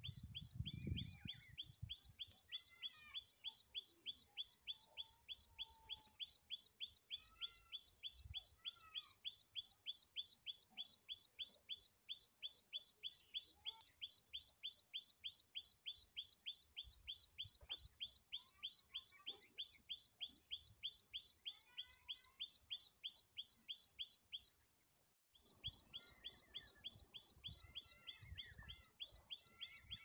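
Birds calling: one short, high call repeated steadily about three times a second, with other birds chirping sparsely at lower pitches around it. The sound drops out for a moment near the end, and a low rumble comes in at the start and after the gap.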